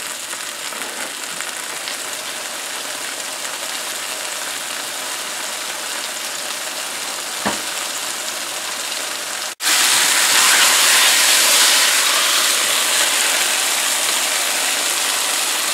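Ham steak dusted with searing flour sizzling in hot olive oil in a Lodge cast iron skillet, a steady frying hiss. About nine and a half seconds in it cuts out for an instant and comes back louder.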